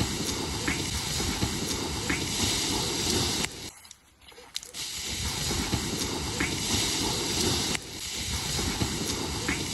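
A campfire being put out: a loud hissing spray in two long bursts, with a short break about three and a half seconds in.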